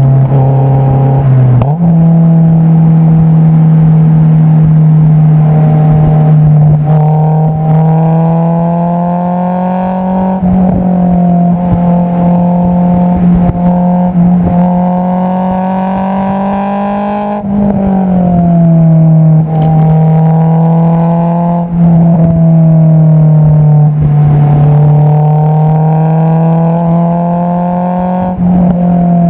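Exhaust note of a Honda S2000's 2.2-litre four-cylinder through an Invidia Q300 exhaust while driving. It holds a steady drone, rises slowly twice under light acceleration, drops sharply about two-thirds of the way through, and steps up in pitch about two seconds in.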